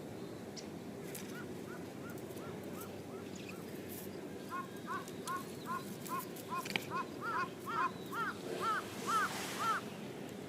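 A bird calling a long series of short, arched notes, about two to three a second, growing louder in the second half.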